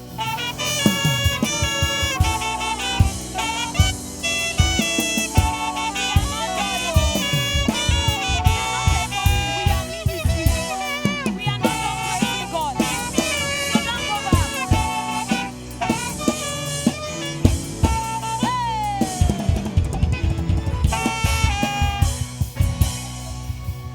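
Live band music: a saxophone plays a lively melody with bends and runs over a drum kit beat. About three-quarters through, it plays a long note that slides downward.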